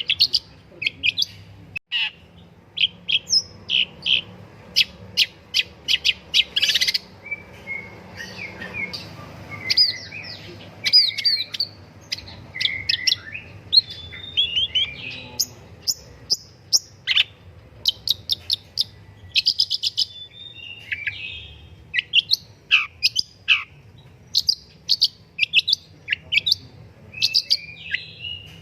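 Long-tailed shrike singing: a fast, unbroken run of sharp chirps mixed with short slurred whistles and quick up-and-down notes.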